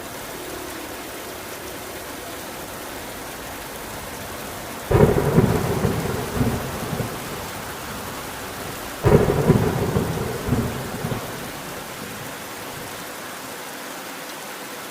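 Steady heavy rain with two sudden thunderclaps, about five and nine seconds in, each rumbling away over a couple of seconds.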